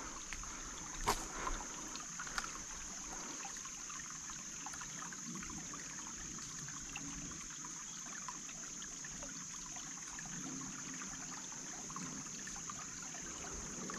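Small creek water trickling steadily, with a constant high-pitched whine over it. A few light clicks come in the first couple of seconds.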